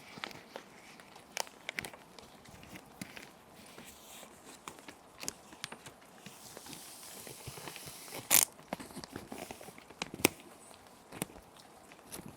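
Plastic sheet protectors crinkling and rustling as paper sheets are handled and slid into them, with scattered sharp crackles, the loudest about eight seconds in and another about ten seconds in. A soft steady rain hiss lies underneath.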